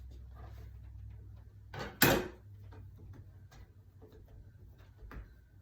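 A sharp, hard knock about two seconds in, with a softer knock just before it and another near the end, amid light handling sounds on a kitchen counter while roll dough is being cut into portions.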